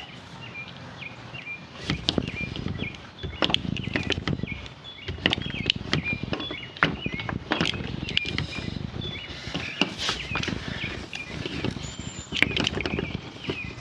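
Hand-pumped hydraulic lug crimper being worked to crimp a lug onto heavy battery cable: irregular clicks and knocks from the tool, with short high squeaks repeating through it.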